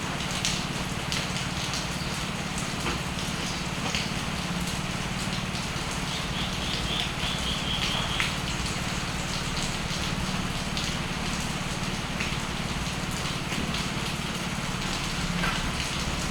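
Steady rain falling, with drops pattering and dripping close by. About six seconds in, a bird gives a short, high chatter lasting about two seconds.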